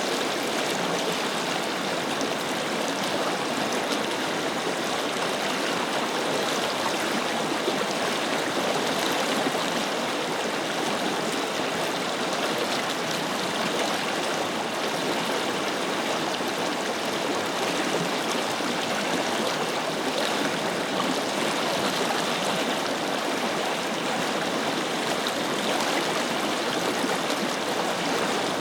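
Forest river flowing, a steady rush and babble of water over its bed.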